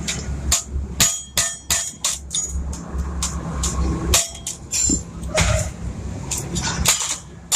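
A hammer striking metal in irregular blows, about a dozen, over a steady low hum.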